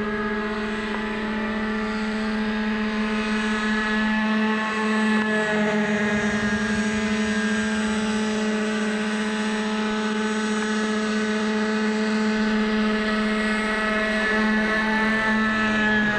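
Glow engine of a radio-controlled model helicopter with a UH-1 Iroquois scale body, running steadily at high revs in flight, its pitch wavering slightly now and then.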